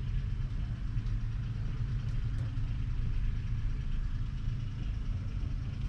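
Kubota M7173 tractor's 6.1-litre four-cylinder diesel engine running steadily.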